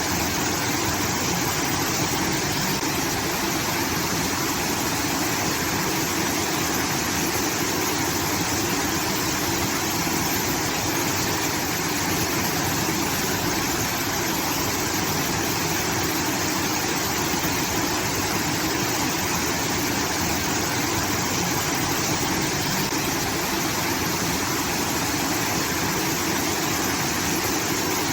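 Irrigation water pouring into a rice field, a steady rushing like a small waterfall.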